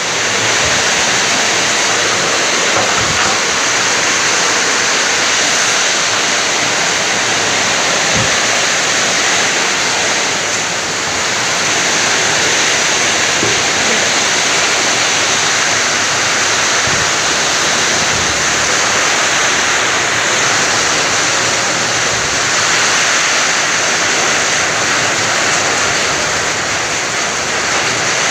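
Heavy rain driven by strong wind, a loud steady rush of noise with no letup.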